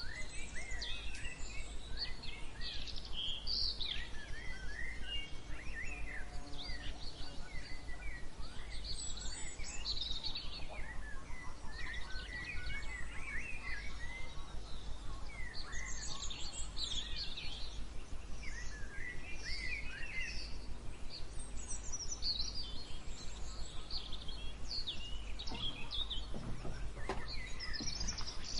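Several songbirds chirping and singing in overlapping, quick twittering phrases, a morning bird chorus, over a steady low rumble.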